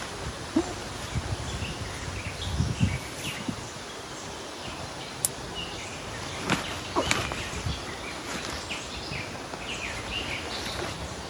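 Small birds chirping in a forest, with a few sharp cracks and low thuds about five to seven seconds in.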